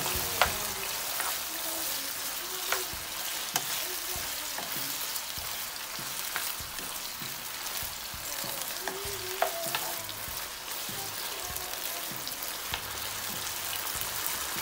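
Pork and spring onions sizzling in a frying pan, freshly doused with soy sauce, while a spatula stirs them with scattered scrapes and taps against the pan.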